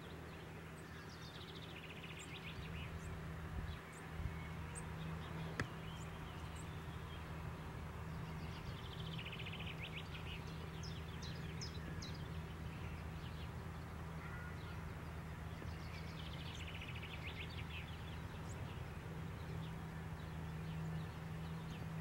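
A small songbird singing a fast trill of repeated high notes three times, with a few single chirps between, over a steady low hum.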